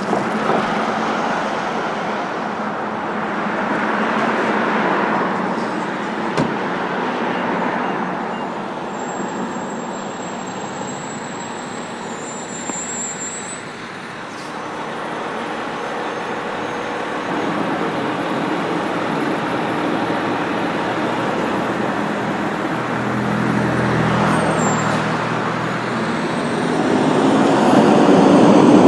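Road traffic: several cars passing one after another, their tyre and engine noise swelling and fading.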